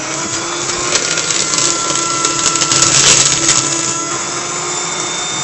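Electric paper shredder running and cutting through a stack of paper: a steady motor hum under a crackling, tearing noise that is loudest about three seconds in.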